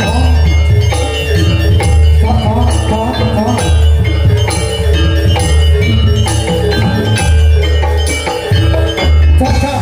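Live Javanese gamelan music for a Jathilan dance: ringing metal mallet instruments play over a steady, heavy drum beat, with a wavering melody line now and then.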